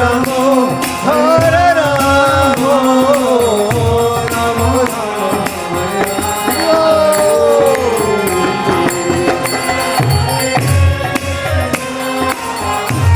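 Kirtan music: a voice sings long sliding melodic phrases over regular low drum strokes and bright jingling percussion.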